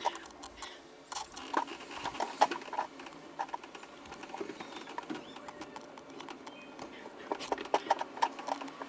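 Light, irregular clicks and taps of handling inside a washing machine drum.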